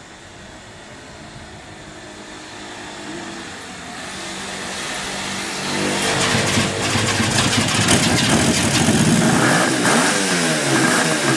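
Suzuki GT550 two-stroke three-cylinder engine starting on the electric starter and running. The engine comes in about halfway through and its speed then rises and falls repeatedly: an unsteady idle.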